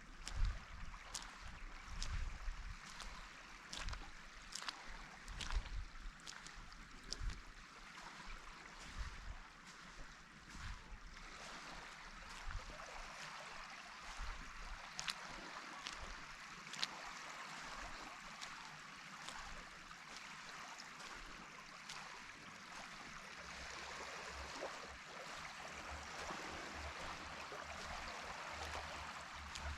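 Footsteps on a pier, about one step a second, over the steady wash of calm sea water. The steps fade out about halfway through, leaving the water.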